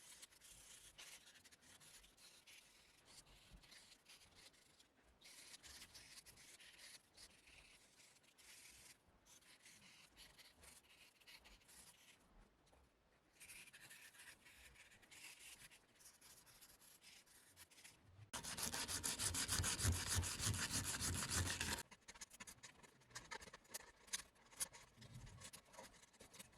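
Sanding the gesso on a wooden mirror frame: faint, intermittent rubbing strokes, then a louder, faster stretch of sanding about eighteen seconds in that lasts some three seconds.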